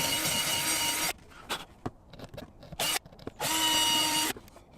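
A drill spins small wire brushes to scour corroded electrical connections, in short bursts: a run of about a second, a brief blip about three seconds in, then another run of about a second. The motor's pitch drops each time it is released, with light clicks and scraping in between.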